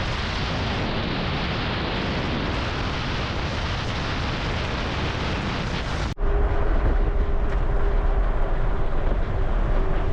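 Steady rushing road noise of a vehicle driving, in two shots; the second, beginning about six seconds in, has a heavier low rumble and a faint steady hum.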